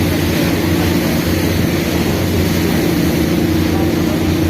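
Passenger ferry's engine running with a steady low drone, with a constant rushing noise above it.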